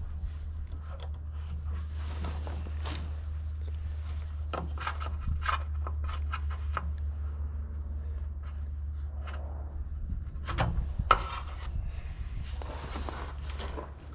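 Hands and a screwdriver working a tractor headlight's wiring plug and bulb loose. Plastic and rubber parts, stiff with the cold, rub and scrape with scattered small clicks, and there is one sharper knock about eleven seconds in, over a steady low hum.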